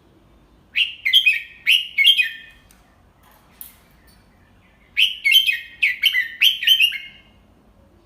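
Red-whiskered bulbul singing two short phrases of quick, falling whistled notes, a few seconds apart.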